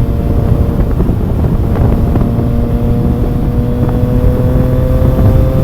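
Triumph Trident 660's inline-three engine pulling steadily at speed in sixth gear, its note rising slightly, with wind rushing over the microphone.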